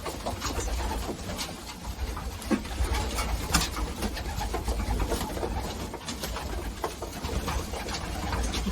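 Racing pigeons cooing, with scattered short clicks and rustles among them.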